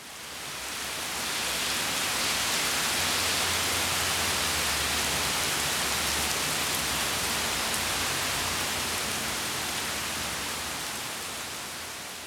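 Steady rain falling, a dense even hiss with no distinct drops, that fades in at the start and fades out near the end, with a low rumble underneath for a few seconds in the middle.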